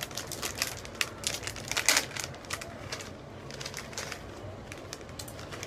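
Irregular crackling and crunching from a packet of sweet potato and taro chips being handled and the chips eaten, with a louder crunch a little under two seconds in.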